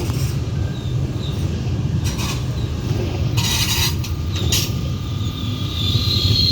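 Train running at a station platform: a steady low rumble, with a few short hissing bursts in the middle and a high squeal building toward the end.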